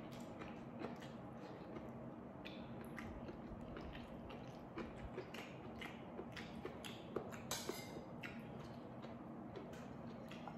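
Close-up eating sounds: a mouthful of rice and side dishes being chewed, with many small wet mouth clicks and smacks, busiest around the middle.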